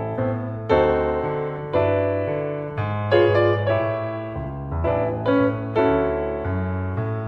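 Solo piano playing a slow Christmas song, chords struck about once a second and left to ring out.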